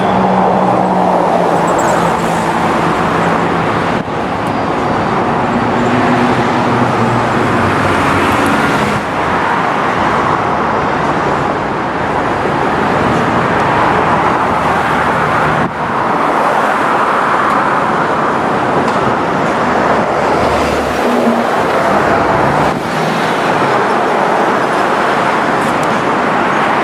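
Freight train rolling past, a steady loud rumble of wheels and cars on the rails.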